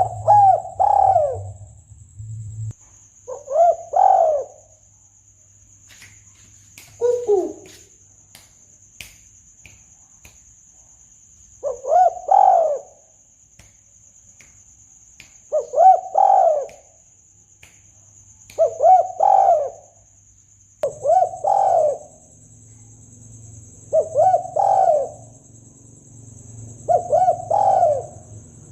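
Spotted dove cooing: short repeated coo phrases, about one every three to four seconds, over a faint steady high buzz.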